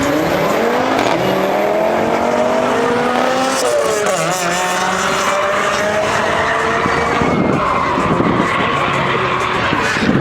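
A performance car's engine revving hard, its pitch climbing for a few seconds, dipping briefly about four seconds in, then climbing again as it accelerates, with tyre squeal over it.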